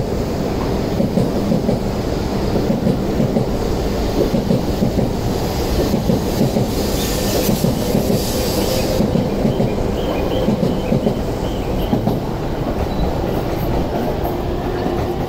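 E5 series Shinkansen train moving past the platform: a steady rumble with rapid clatter from the wheels, and a hiss for a couple of seconds in the middle.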